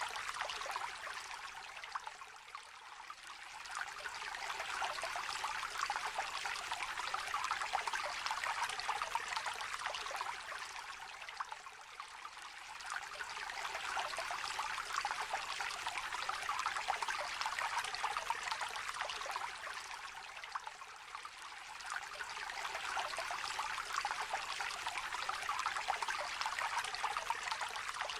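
Small river gently trickling and babbling: a steady rush of running water whose level eases off briefly three times, about every nine seconds.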